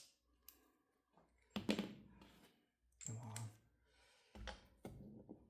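Faint clicks and short rattles of small metal hand tools and driver bits being handled and tried on a carburetor screw, a sharp click at the start and a few brief clatters after.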